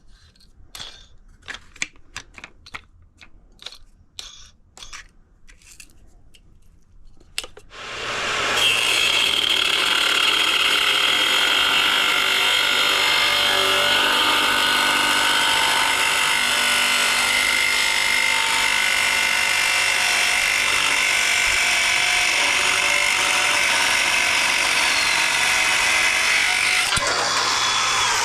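Light clicking and tapping, then a motor starts abruptly about eight seconds in and runs loud and steady at high speed with a whine. Near the end it changes and begins to spin down, its pitch falling.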